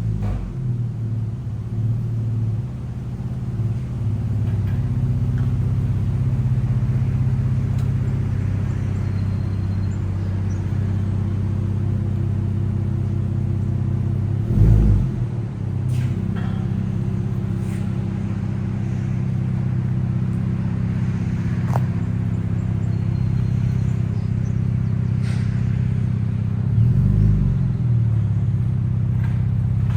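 Dodge Challenger SXT's V6 with its mufflers deleted, running steadily with a deep exhaust note, swelling briefly twice, about halfway through and near the end.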